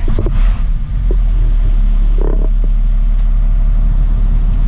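UD truck's diesel engine running with a steady low rumble while the crane boom is lowered, with a few light knocks near the start and about two seconds in.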